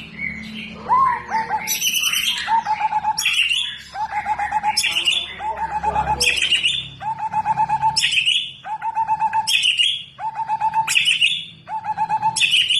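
White-rumped shama (murai batu) singing one phrase over and over, about once a second: a fast stuttering run of notes followed by a loud, sharp high note. This is its repeated 'tembakan' song.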